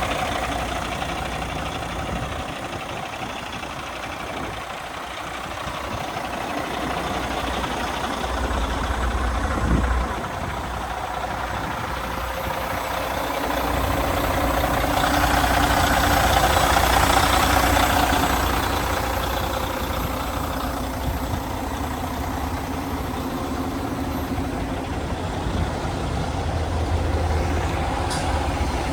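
Kenworth W900 semi truck's diesel engine idling steadily, swelling louder for a few seconds around the middle.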